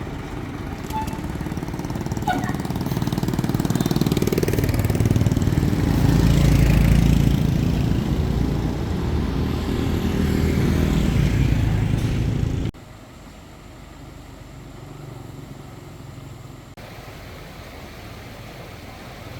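A crane's engine runs under load, getting louder and working harder for several seconds. About two-thirds of the way through it cuts off abruptly, leaving a quieter steady engine-like noise.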